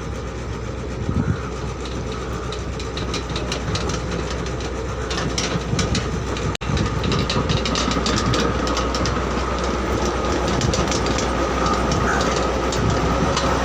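L&T tracked excavator running, a steady low engine drone with dense metallic clanking and rattling, typical of the tracks moving. A steady whine joins about two thirds of the way through.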